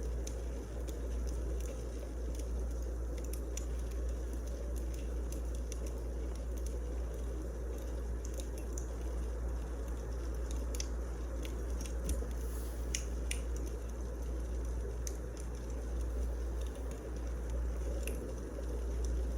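Wood fire crackling in a fireplace: scattered sharp snaps and pops at irregular intervals over a steady low rumble.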